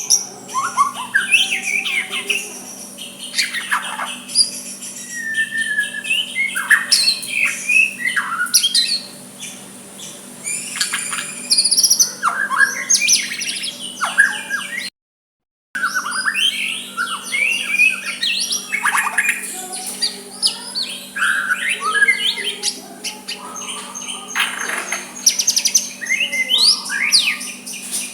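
White-rumped shama (murai batu) singing a long, varied song of clear whistles and quick slurred phrases, with a steady low hum behind it. The sound cuts out completely for under a second about halfway through.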